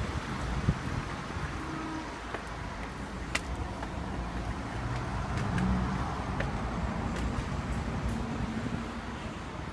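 Steady low vehicle rumble, swelling a little past the middle, with a few light clicks.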